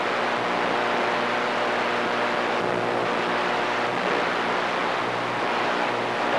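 CB radio static: a steady hiss with a low hum and faint steady tones over an open channel, with no voice on it.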